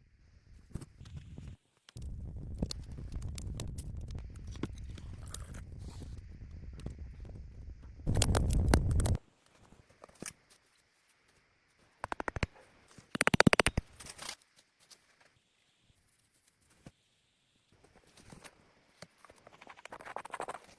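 Scraping and crunching in separate bouts, from branches and forest debris being handled. A few seconds of low rumbling noise come near the start, followed by a louder burst and later a quick run of clicks.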